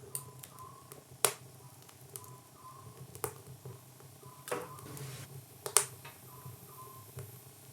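A few sharp snaps or clicks, about four, irregularly spaced, over a low steady hum.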